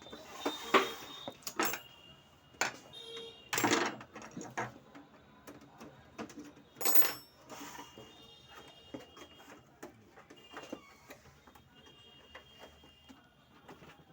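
Irregular clicks and knocks of an HP LaserJet M1005 printer being handled and worked on, with two short louder scraping noises about four and seven seconds in.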